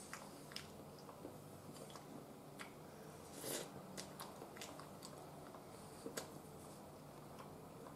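A person chewing a mouthful of food, with several light clicks of wooden chopsticks against a ceramic rice bowl and one short louder noise about three and a half seconds in.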